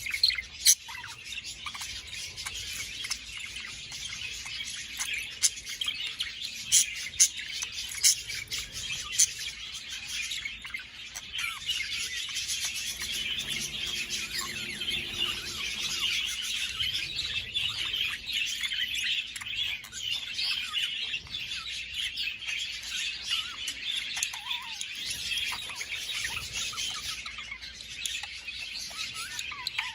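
Budgerigars chattering and warbling continuously, with several sharp, louder short calls in the first nine seconds.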